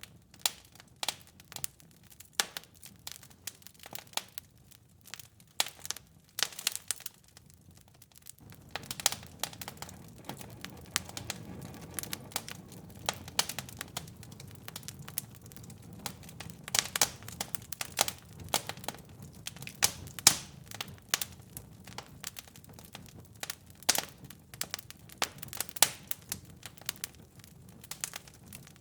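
Wood fire crackling in a fireplace, with irregular sharp pops and snaps. About eight seconds in, a low steady rush of flames comes in underneath the crackling and stays.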